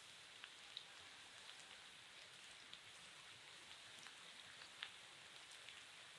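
Crinkle-cut potato fries frying in a pan: a faint steady sizzle with scattered small crackles.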